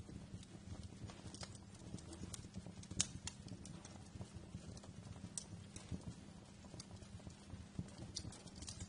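Wood fire crackling, with irregular sharp snaps and pops and one louder pop about three seconds in, over a low rumble of burning.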